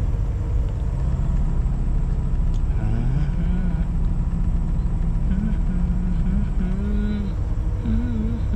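Semi-truck diesel engine idling, a steady low rumble heard inside the cab while the truck waits in stopped traffic. A faint wavering voice or humming sits over it from about three seconds in.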